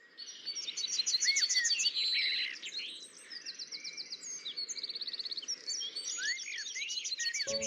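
Several birds singing and calling at once, a busy mix of quick repeated chirps, rapid trills and short rising and falling whistles over a faint steady hiss.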